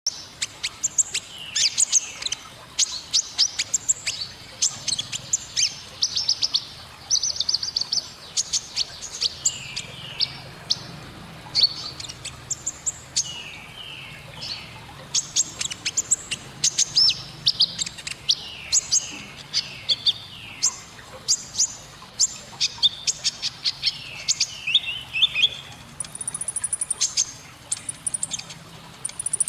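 Domestic canary singing a long run of rapid, scratchy trills and quick falling notes, the 'gesekan' song style that Indonesian keepers train for.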